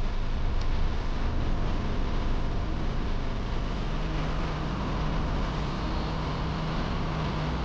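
Steady outdoor rumble of traffic and wind, with a low engine hum from a motor vehicle coming in about four seconds in.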